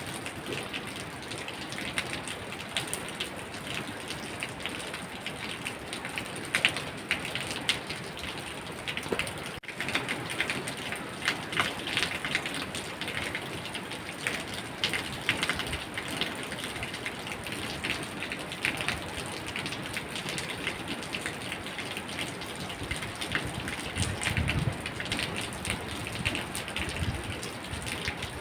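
Steady rain falling, with many individual raindrops ticking sharply on a hard surface. There is a brief low rumble about 24 seconds in.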